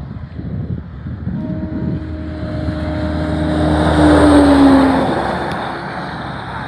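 An 18-wheeler passes at highway speed with the rush of its tyres and engine swelling to a peak about four seconds in and then fading. It sounds a steady, not very loud horn note that drops in pitch as the truck goes by.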